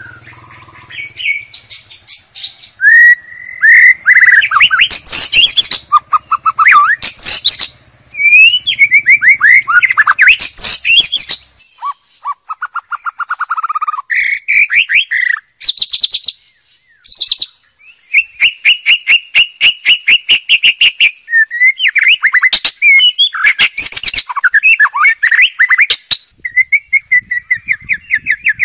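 White-rumped shama singing a varied song: clear whistled notes and glides mixed with fast trills and rapid runs of repeated notes, phrase after phrase with short pauses between.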